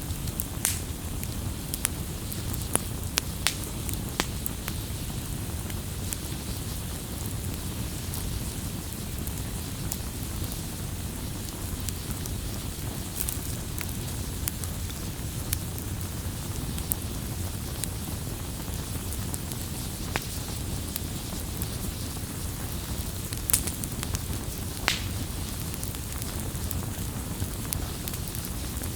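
Campfire crackling: a steady low rumble and hiss of burning wood, with scattered sharp pops and snaps, a few of them louder.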